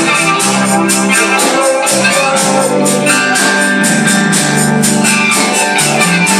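Live gospel band playing, with organ or electric keyboard chords held under a steady beat of tambourine or drum strokes.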